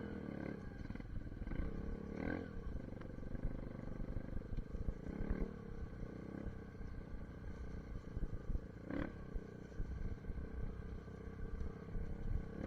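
SSR 150 dirt bike's single-cylinder engine running while being ridden, surging briefly a few times, with heavy wind rumble on the microphone.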